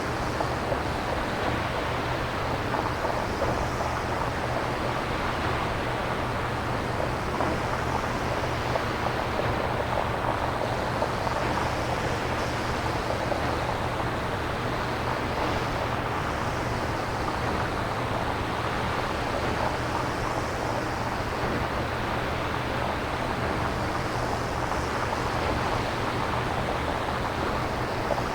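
Synthesized surf-like noise: a steady hiss that swells and ebbs about every four seconds, like waves washing in, over a steady low hum.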